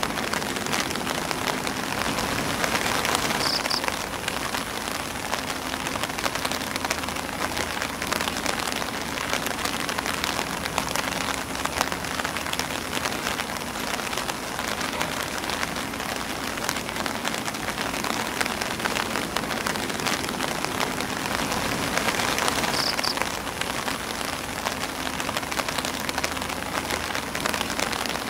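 Steady rain pattering on an umbrella and on grass leaves, dense drop ticks over an even hiss, swelling slightly twice.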